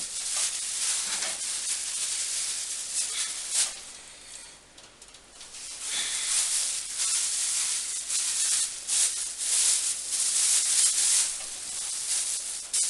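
Raw meat sizzling and hissing on a fire-heated grill grate as the pieces are laid on and moved about. The hiss fades for a moment around the middle, then returns with small crackles.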